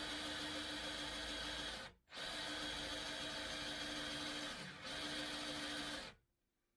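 Electric drill driving a small hole saw into the edge of a solid pine door to bore the latch hole, the motor running steadily. It stops for a moment about two seconds in and starts again, slows briefly under load near five seconds, and stops about six seconds in.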